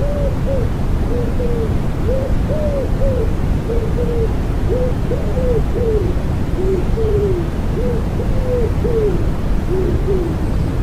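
Common wood pigeon cooing in repeated phrases of soft, arching low notes over a steady bed of white noise.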